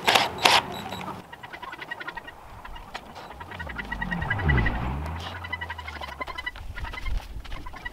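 Farm birds calling with rapid repeated chirping notes, opened by two short loud knocks or bursts right at the start. A low rumble dips and rises in pitch around the middle.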